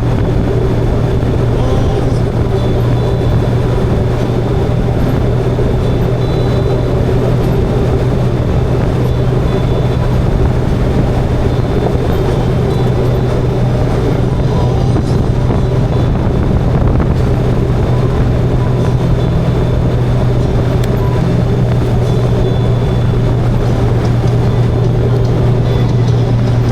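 Motorcycle engine running at a steady cruising speed, a constant low drone that holds the same pitch throughout.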